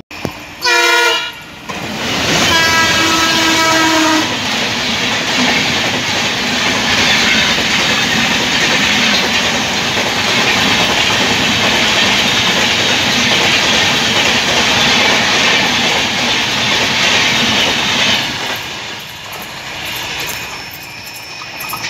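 Train horn sounding twice, a short blast about a second in and a longer one about two and a half seconds in, then an express train of LHB coaches passing at speed: a loud, steady rush of wheels on rails that dies away after about eighteen seconds.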